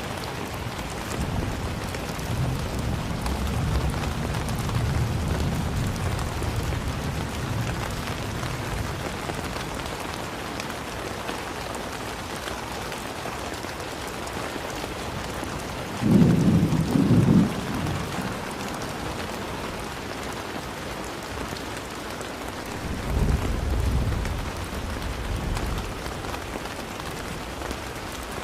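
Steady rain hissing, with low rolls of thunder: a long rumble in the first few seconds, a short, louder rumble a little past halfway, and a weaker one later.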